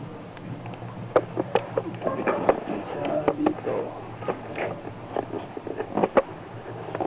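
Irregular clicks, taps and short scrapes of small hard parts being handled, typical of working on an LED bulb's plastic housing and circuit board by hand, over a steady low hum.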